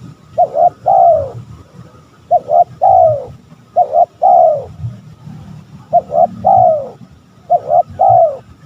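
Spotted dove cooing: a repeated phrase of two short notes and then a longer falling coo, five times at about one-and-a-half-second intervals.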